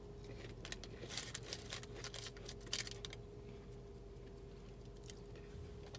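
Faint chewing of a McDonald's hash brown, with scattered small crunches and crinkles that thin out after about three seconds. A steady faint hum runs underneath.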